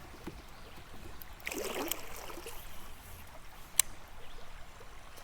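Faint trickling and lapping of river water around a kayak, with a brief rush of noise about one and a half seconds in and a single sharp click near four seconds in.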